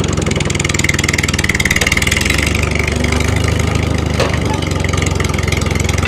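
Tractor engine idling steadily with a fast, even throb.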